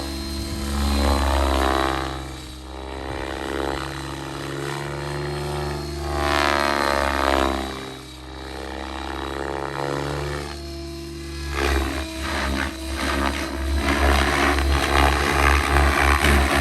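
Electric RC helicopter (Miniature Aircraft Whiplash 730) flying: its 690 mm main rotor blades chop with a low pulsing thrum over the steady whine of the motor, the sound swelling and fading as it moves about. About twelve seconds in it gets louder and choppier, with fluttering blade noise under harder manoeuvring.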